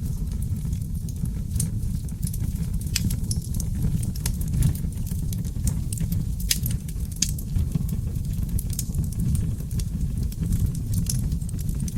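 Seasoned oak logs burning in a fireplace: a steady low rumble of flame with frequent small, irregular crackles and pops.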